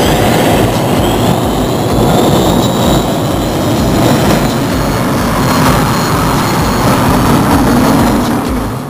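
A pulling tractor's engine running loud and rough under full load, with a high whine rising in pitch over the first few seconds. A regular low beat of about two a second runs underneath.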